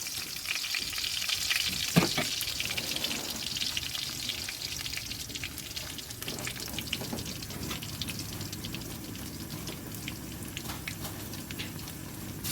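Food sizzling and crackling in a hot pan as it is sautéed and stirred, with a single sharp knock, like a utensil striking the pan, about two seconds in.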